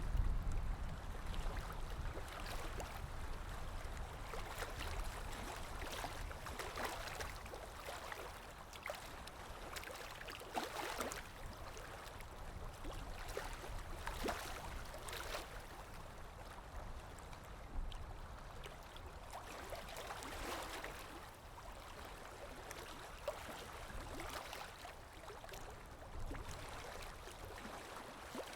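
Ambience recording of water lapping, with irregular small splashes, over a low wind rumble that is strongest at the start.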